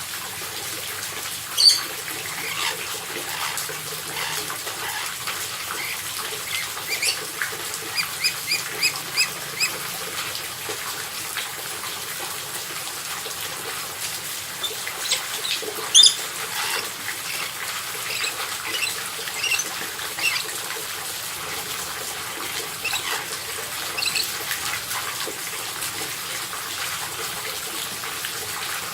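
Parrots calling: scattered short, sharp squawks and chirps, two of them much louder (about two seconds in and about halfway), over a steady rushing hiss.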